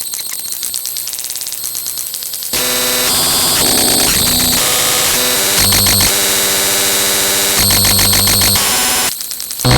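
Harsh electronic static and glitchy synthesized noise: a rapid stuttering pulse, then about two and a half seconds in it jumps louder into a dense hiss with steady buzzing tones that switch abruptly every second or two.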